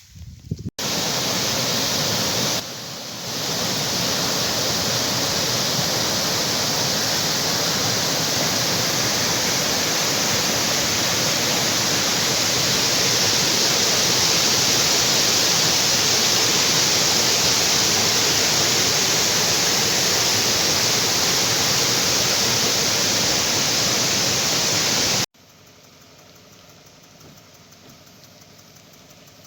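Waterfall, a loud steady rush of falling water. It stops abruptly near the end, leaving only a faint hiss.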